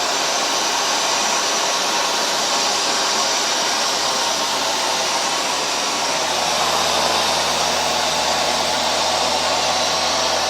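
Hoover Dual Power Max carpet washer running with a loud, steady whir from its motor during a wet cleaning pass, while dispensing cleaning solution into the carpet.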